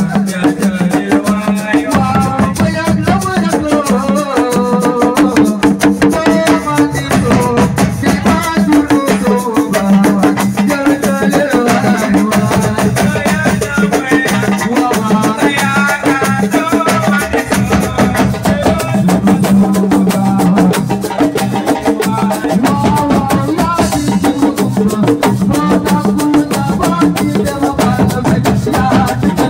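Live assiko band music: a dense, driving drum and percussion rhythm with a melodic line moving over it.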